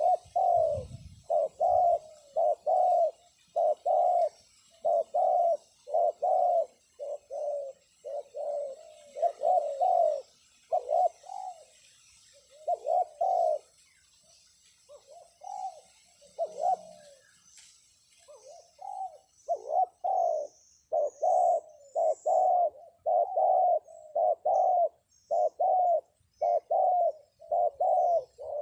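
Spotted dove decoy calling to lure wild doves down: a long run of short, loud coos, about two a second, thinning to scattered coos through the middle and picking up again. Faint high chirps of small birds sound in the last third.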